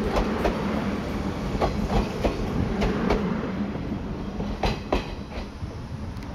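A JNR-liveried 381-series limited express pulling out of the station, its wheels clicking over the rail joints under a steady rumble. The sound fades as the train moves away.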